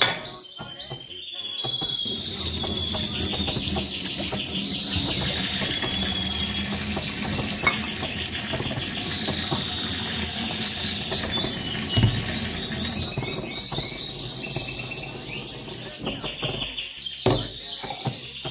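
Birds chirping repeatedly over a steady, noisy background, with a couple of sharp knocks in the second half.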